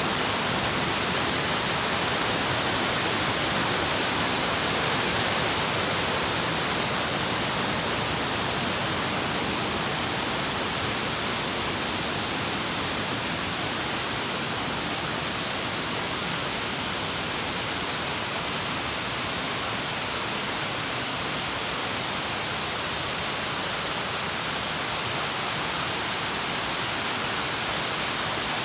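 Waterfall: water rushing in a steady, unbroken hiss.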